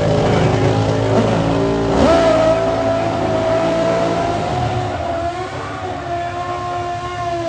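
Pro Stock drag-racing motorcycle engines revving high and held at a steady, slightly wavering pitch, the loudest part in the first few seconds and easing off toward the end.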